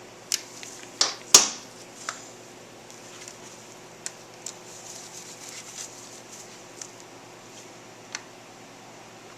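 Hands working on a motorcycle's front end: a few sharp clicks and knocks of tools and parts being handled, the loudest about a second and a half in, then lighter scattered clicks and rustling. A steady low hum runs underneath.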